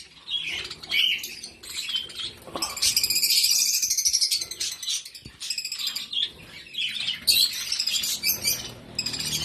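A flock of small caged parrots chirping and chattering with many shrill calls, densest and loudest a few seconds in.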